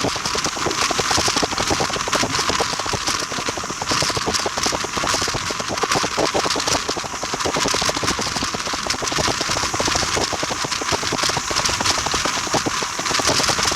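Train running along the track: a steady rushing noise full of rapid, irregular clattering clicks.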